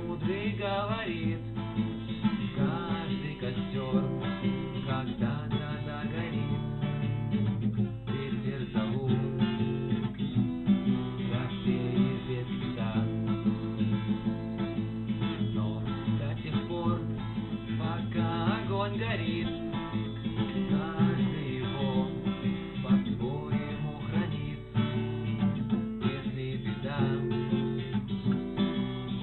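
Acoustic guitar being strummed in steady chords, with a voice singing over it at times: a solo sung-and-played cover song.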